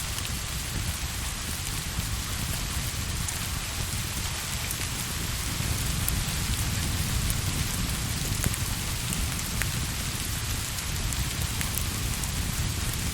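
Steady rain falling, with a deep low rumble underneath that swells slightly in the middle and a few faint ticks of drops.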